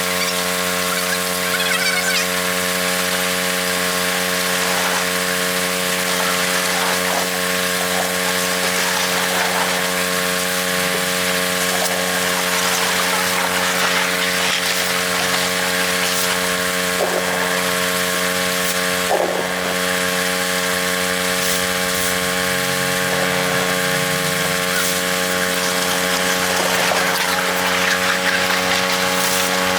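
A machine's motor running steadily at constant speed, a continuous hum with a fixed pitch.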